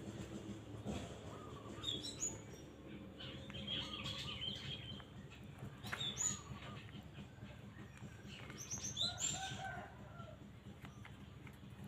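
Birds chirping in short scattered calls, with a lower call about nine seconds in, over a steady low hum.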